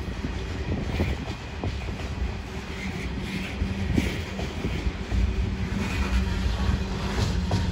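Loaded coal hopper wagons of a freight train rolling past, a steady low rumble with occasional clicks from the wheels going over the rail joints.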